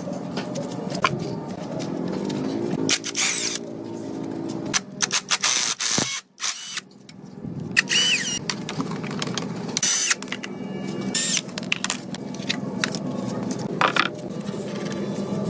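Workshop tool sounds on metal: a run of clicks, knocks and scrapes with short tool whirs, cut off briefly about six seconds in.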